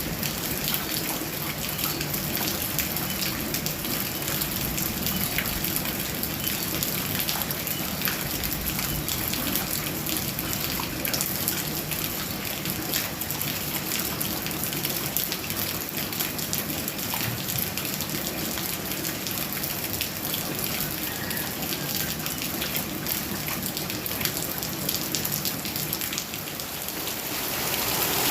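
Heavy rain pouring steadily, a dense patter of drops striking surfaces; it dips briefly near the end, then grows louder.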